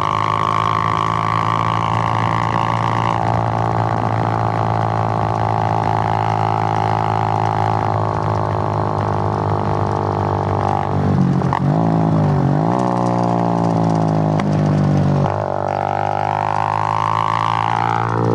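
Suzuki GN125's single-cylinder four-stroke engine running on the move, a steady drone. Its pitch dips and recovers about eleven to twelve seconds in. It drops back a little just after fifteen seconds, then climbs again.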